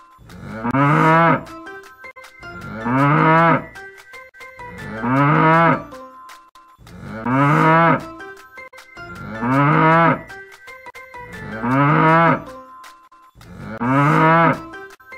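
Cattle mooing: seven long moos about two seconds apart, each rising and then falling in pitch, with light background music between them.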